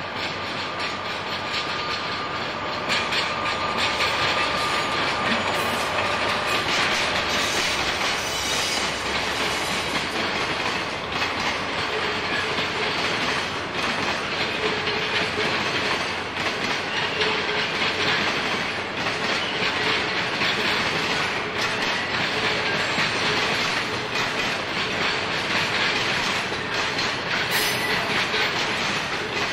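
Container flatcars of a freight train rolling slowly past during shunting, wheels clacking over rail joints and points, with a faint steady wheel squeal at times.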